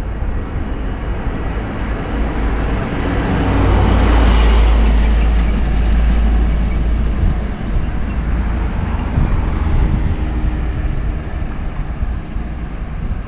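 Wind rumbling on a helmet-mounted action camera's microphone while cycling along a road, with a vehicle passing about four seconds in, swelling and then fading.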